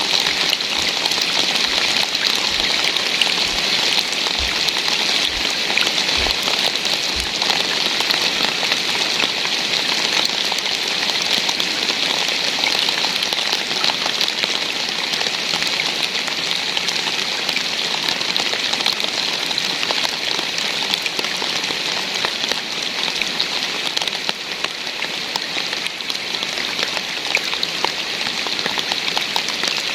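Steady rain falling, a dense even hiss of many individual drops striking a surface. A few soft low thuds come in the first several seconds.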